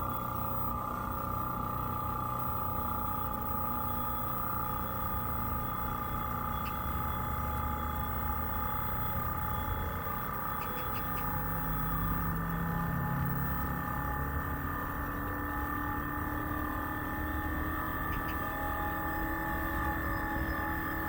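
Air conditioner outdoor unit running: a steady machine hum with several held tones over a low rumble, typical of the compressor and fan during a refrigerant gas charge.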